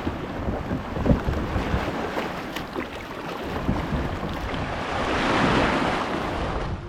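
Strong wind buffeting the microphone over choppy sea water, with waves washing around the kayak; the rush swells briefly about five seconds in.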